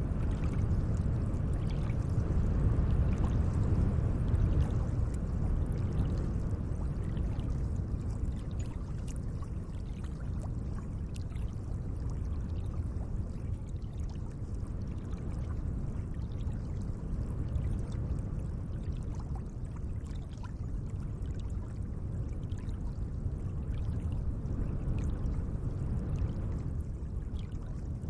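Gentle lake water, a steady low wash that swells and eases slowly, with faint small splashes scattered through it.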